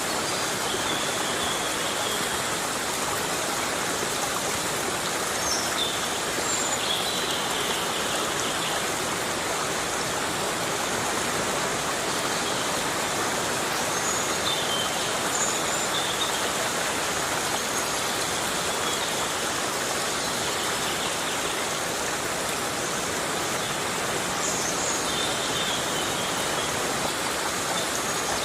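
Heavy rain falling steadily in a rainforest, an even rushing hiss, with a few short high chirps now and then.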